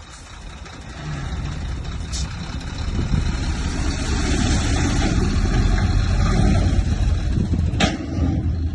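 Diesel engine of heavy earthmoving machinery working under load, growing louder over the first few seconds and then holding steady. A single sharp knock comes near the end.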